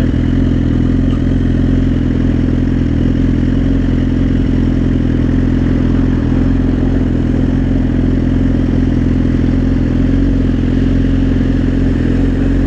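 Suzuki GSX-R sport bike's engine running at a steady, unchanging pitch while riding at constant speed, with road and wind noise.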